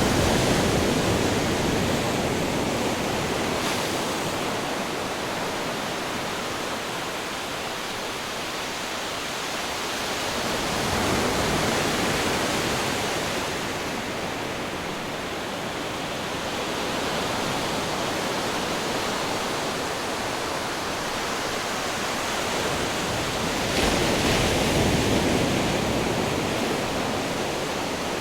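Ocean waves breaking on rocks, a continuous rushing wash that swells and eases. Loud surges come near the start, about eleven seconds in and again about twenty-four seconds in.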